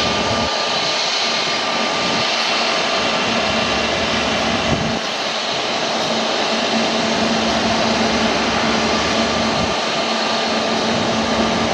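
Jet airliner engines running, a loud, even rush of noise with a faint steady whine through it.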